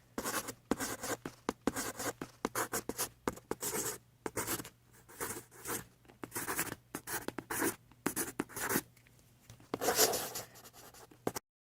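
A run of short, irregular scratching and rubbing strokes over a faint low steady hum, the loudest about ten seconds in.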